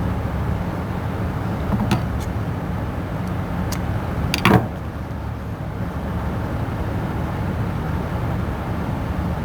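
Steady low workshop rumble, with a few light clicks of handling and one louder sharp snap about four and a half seconds in.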